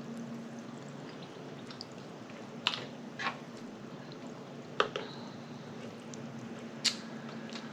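Wet mouth sounds of someone eating: a few short smacks and squishes spread through a few seconds of chewing.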